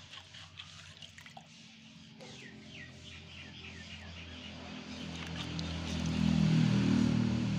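Birds chirping with short falling calls in the first few seconds. From about halfway, a steady, louder low sound builds and is at its loudest near the end.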